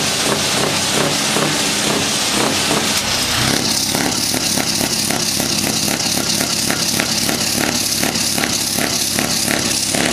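Scania R500 truck engine running loudly under throttle. About three and a half seconds in the sound changes, with more hiss and a rapid, even pulsing.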